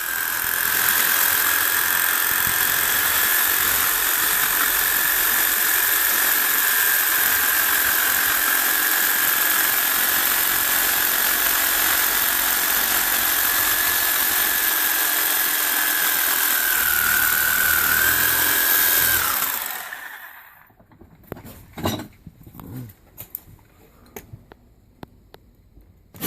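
Handheld power tool running steadily at high speed with a hissing whine, then winding down and stopping about twenty seconds in; a few faint clicks and knocks follow.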